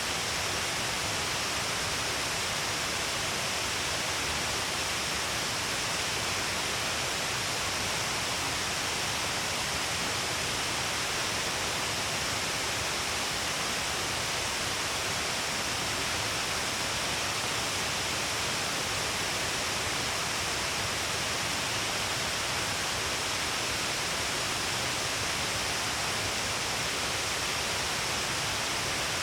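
Steady, unbroken rush of falling water, an even hiss with no changes.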